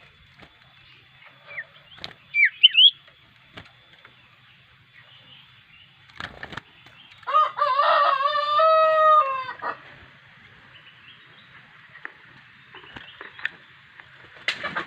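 A rooster crows once, a long call of about two and a half seconds midway through and the loudest sound here. Earlier, a few quick sweeping chirps from a common iora (cipew), over a faint steady high whine.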